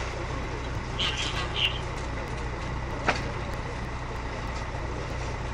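Steady low rumble of an idling engine. Two short high-pitched sounds come about a second in, and a single sharp click about three seconds in.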